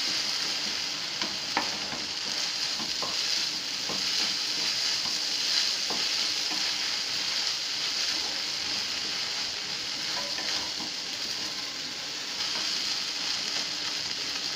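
Sago pearls frying in oil in a nonstick pan, sizzling steadily as a wooden spatula stirs them through, with a few light taps of the spatula against the pan.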